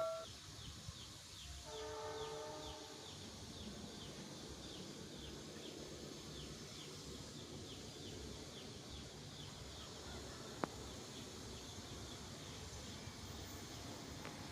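A faint, distant train horn sounds briefly about two seconds in. A quiet background follows, with a steady series of faint high chirps and a single click near the end.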